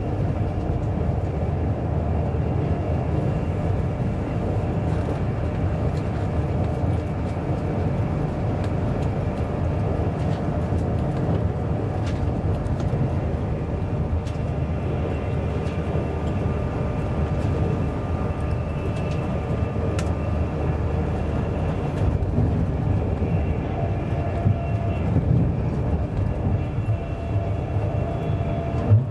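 Steady low rumble of wheels on the rails inside an InterCity 225 Mark 4 passenger coach running at speed, with a few faint clicks.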